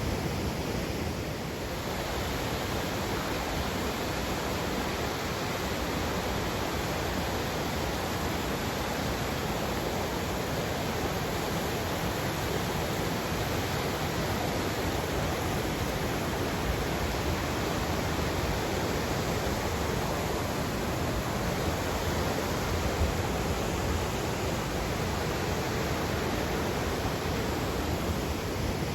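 River water rushing, a steady even rush with no breaks.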